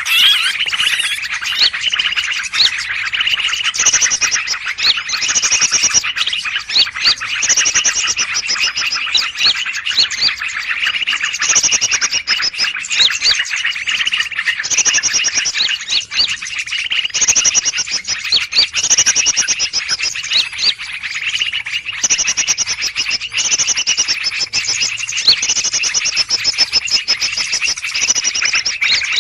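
Many small birds chattering and calling at once in a dense, unbroken din, with high trilled phrases coming back about every second and a half. It is a 'burung ribut' (noisy birds) lure recording, played to draw in greater green leafbirds.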